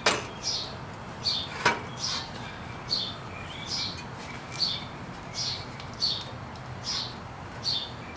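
A bird calling over and over, a short high falling chirp about every 0.8 seconds, with two sharp metal knocks near the start and about a second and a half in as the engine is set onto the bike's engine-plate mounts.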